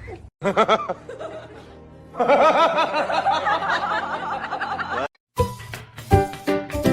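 Music with laughter over it, a quickly wavering run of sound in the middle that cuts off suddenly about five seconds in, followed by clicks and short tones.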